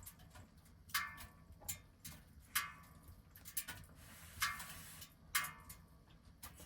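Light clinks of tableware against a dish during a meal, a few irregular taps each with a short ringing tail.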